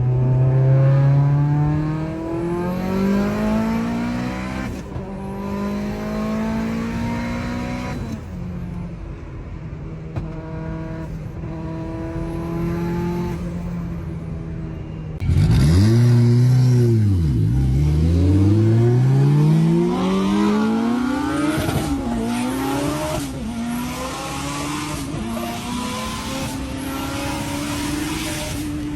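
Mitsubishi Lancer Evolution IX's turbocharged four-cylinder engine accelerating hard through the gears, its pitch climbing and dropping at each shift. It holds a steadier pitch for a while, then about halfway through it gets suddenly louder with quick revs up and down before pulling through more gears.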